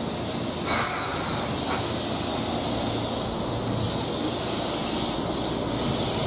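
Keihan 8000 series electric train rolling along the platform, with a steady hiss and rumble of wheels on rail. A short, sharp clank or screech comes about a second in, and a fainter one a second later.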